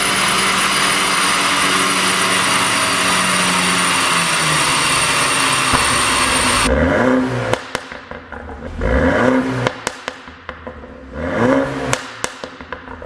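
Loud steady mechanical whir, the car's drivetrain and dyno spinning fast, which cuts off suddenly about two-thirds in. Then the BMW 428i's turbocharged four-cylinder engine is blipped about three times, each rev rising and falling with sharp exhaust pops and crackles from its pop-sound tune.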